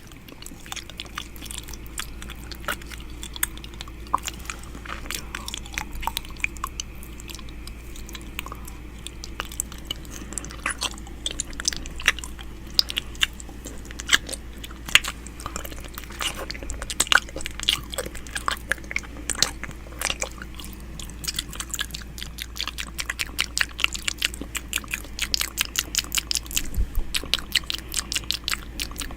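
ASMR ear-eating mouth sounds on a binaural microphone: a dense run of sharp mouth clicks and smacks that comes faster near the end, over a steady low hum.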